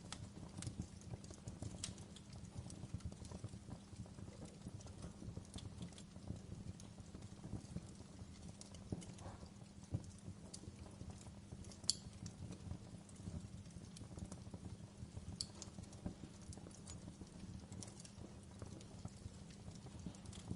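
Wood fire burning in a fireplace: a low steady rumble of flames with constant small crackles and an occasional sharper pop, the loudest about twelve seconds in.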